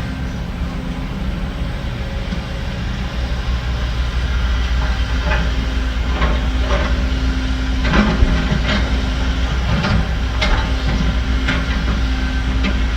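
The diesel engine of a heavy earthmoving machine runs with a steady low drone. From about five seconds in there is a string of sharp, unevenly spaced metallic clanks.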